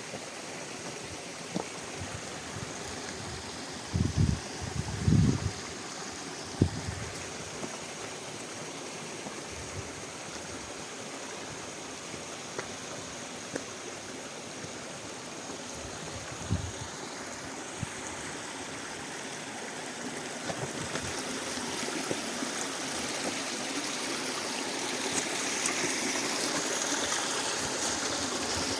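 Mountain stream water running steadily, growing louder in the last third, with a few short low thumps about four to six seconds in and again midway.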